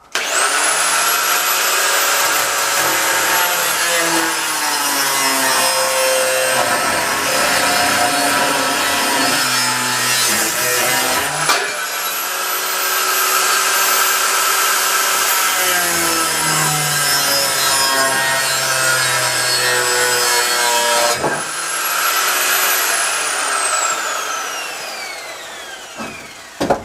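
Angle grinder with a cut-off disc cutting steel. Its motor whine rises on start-up over a dense cutting rasp. The run breaks off and restarts twice, and it winds down with a long falling whine near the end.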